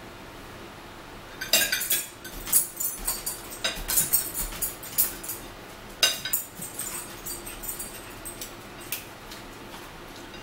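Crunchy chewing of cucumber with irregular crackles and clicks. Around six seconds in a plastic water bottle crackles and gives a sharp click as its screw cap is twisted open.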